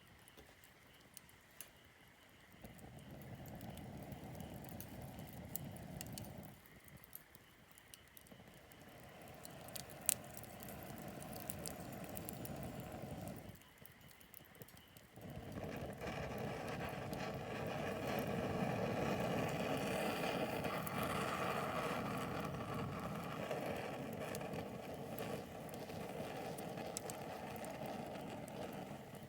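Wood campfire crackling with scattered sharp pops. Three times a steady low rushing noise sets in abruptly and stops again: about two seconds in, about eight seconds in, and from about fifteen seconds in almost to the end. This rushing is the loudest sound.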